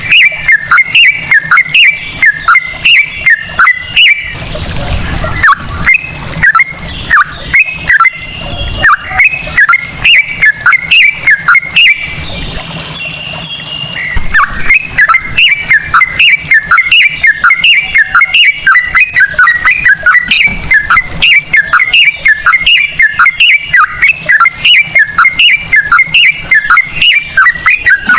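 A yellow-vented bulbul (trucukan) singing a long, rapid run of repeated chirping notes, about three or four a second. The song breaks off for about two seconds midway, then carries on.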